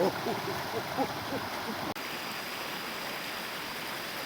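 Steady rushing of flowing water, like a stream. For the first two seconds there is also a quick string of short squeaky calls, which stop abruptly about two seconds in.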